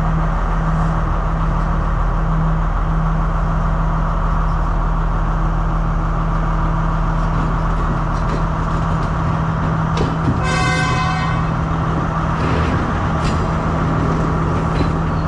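Diesel passenger train running with a steady, loud engine drone as it pulls out. A train horn sounds once for about a second, about ten seconds in.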